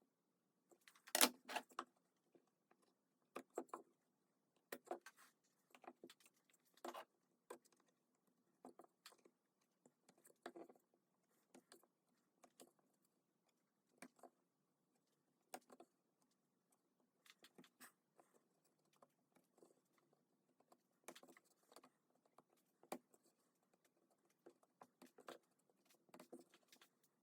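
Faint, irregular light clicks and knocks of small hard objects being handled, the loudest about a second in.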